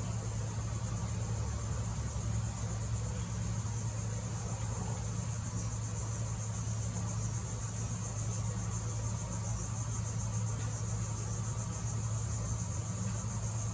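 Steady chorus of insects, a continuous high-pitched trilling buzz, over a steady low hum.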